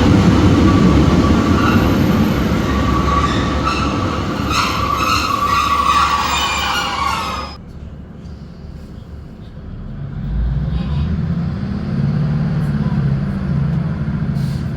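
Diesel passenger train at a platform: loud running noise with steady high squealing tones, which cuts off suddenly about halfway through. A low diesel engine hum follows and grows louder near the end.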